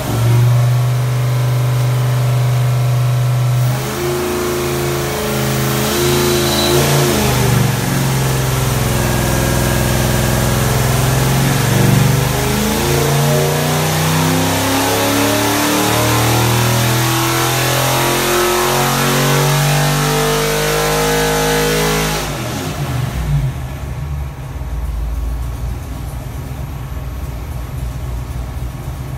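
Ford 331 stroker small-block V8 running on an engine dynamometer: it holds steady for about four seconds, then is pulled with its pitch rising steadily for about eighteen seconds toward 6,200 rpm. Near the end of the pull the throttle is closed and the engine drops abruptly back to a lower, quieter idle.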